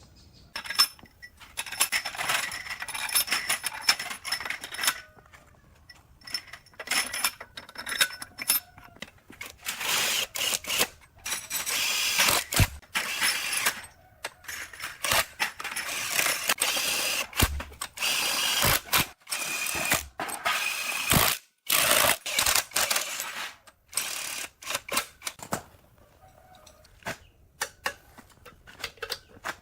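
Workshop tool work on metal parts: loud bursts of noise starting and stopping every second or two, with sharp knocks and clicks between them.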